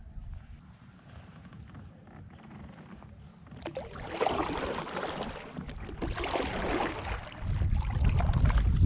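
Kayak paddle swishing through the water in two strokes, about four and six seconds in, with low wind rumble on the microphone near the end. Insects chirp faintly at first.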